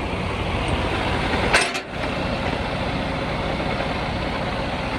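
Diesel truck engine idling steadily, with one short knock about a second and a half in.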